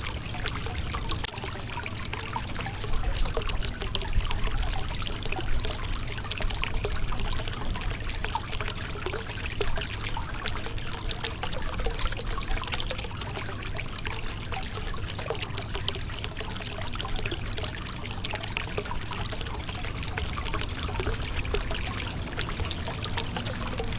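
Shallow river water flowing and splashing over rocks, a steady babbling and trickling.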